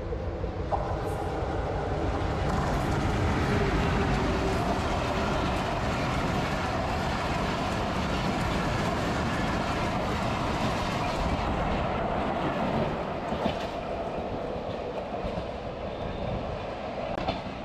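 Bangladesh Railway intercity passenger train passing close by, its coaches' wheels running over the rails. The noise swells over the first few seconds, holds steady, then dies away after about twelve seconds as the last coaches move off down the line.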